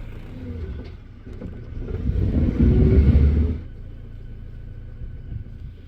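Car driving with its engine running as a low rumble. The engine grows louder and rises in pitch from about two seconds in, as if accelerating, then drops back to a steady rumble after about three and a half seconds.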